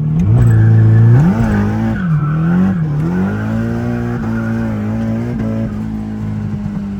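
Nissan S13's turbocharged SR20 four-cylinder revving up and down several times as it is driven, then holding fairly steady revs and easing off near the end. It runs cleanly, the misfire now cured.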